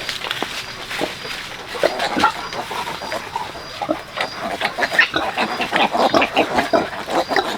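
Pigs grunting and squealing in a rapid string of short, high calls, busiest in the second half.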